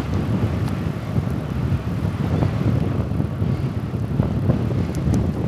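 Steady low rumble of wind on the microphone and bicycle tyres rolling while riding.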